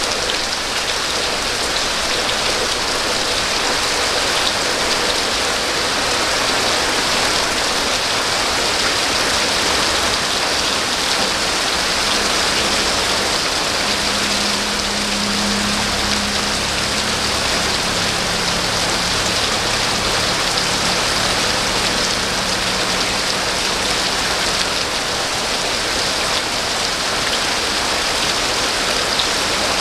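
Steady rain falling, an even hiss of drops on surfaces. About halfway through, a faint low hum joins underneath it for several seconds.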